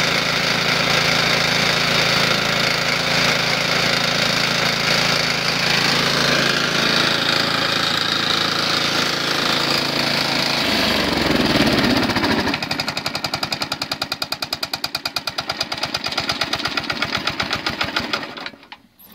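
1970s 3.5 hp Briggs & Stratton single-cylinder mower engine running with a bad rod knock. About eleven seconds in its speed drops and it runs slowly with an even pulsing beat, then it stops shortly before the end.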